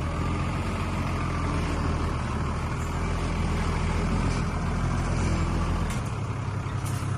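Heavy diesel engine of earthmoving machinery running steadily under load. The engine note changes and drops a little about six seconds in.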